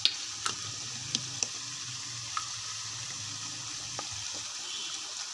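Diced chicken, potatoes and carrots sizzling in a nonstick wok, with a wooden spatula scraping through them and knocking sharply against the pan several times.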